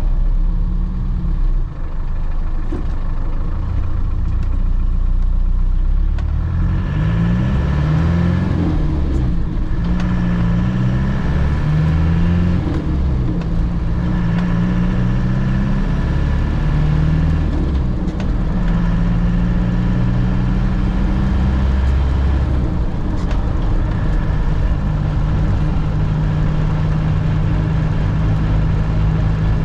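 Land Rover Defender heard from inside the cabin while driving: the engine climbs in pitch and drops back several times through gear changes from about six seconds in, then holds a steady pitch near the end, over continuous road noise.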